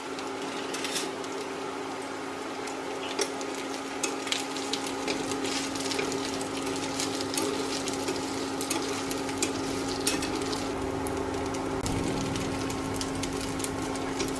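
Small strips of seitan frying in hot oil in a pan: a steady sizzle dotted with many small crackles and pops, stirred now and then with chopsticks. A steady low hum runs underneath.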